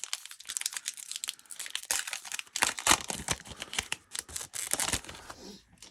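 Crinkling and crackling of trading-card pack wrappers and cards being handled: a dense run of irregular crackles that dies away near the end.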